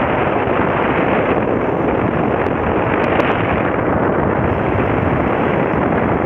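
Loud, steady wind rumble buffeting the microphone, with no distinct tone or rhythm.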